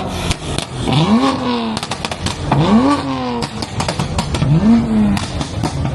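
Car engine free-revved in quick blips, four times, each rising sharply in pitch and then falling back to idle, with sharp pops in between.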